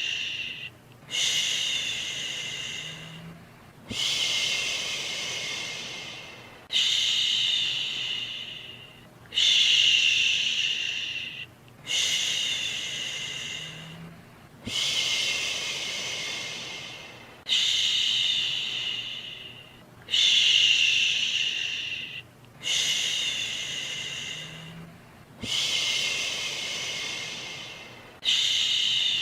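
A person's voice making long 'shhh' shushing sounds over and over, about one every two and a half to three seconds. Each shush starts strong and trails away before the next. It is the rhythmic shushing used to soothe a baby to sleep.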